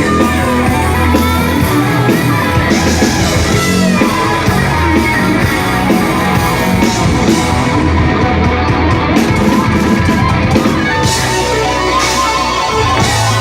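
Live heavy rock band playing at full volume: electric guitars, bass and drums, with singing, recorded from the audience.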